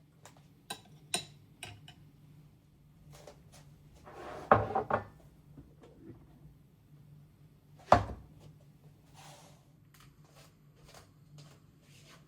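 Household objects being handled: a few light clicks, a louder rattle of several hits about four and a half seconds in, and a single sharp knock about eight seconds in, over a faint steady hum.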